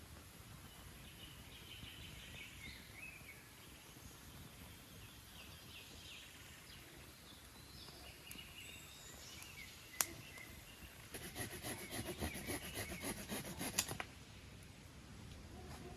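Faint bird chirps over quiet outdoor background noise, then a sharp click about ten seconds in, followed by roughly three seconds of rapid crackling clicks that stop suddenly.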